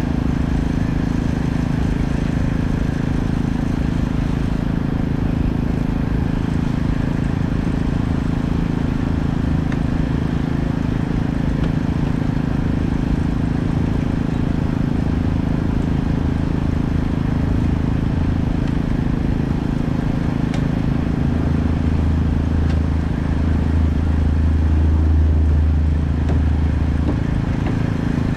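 An engine running steadily with a constant hum; a deeper, louder drone joins in for several seconds near the end.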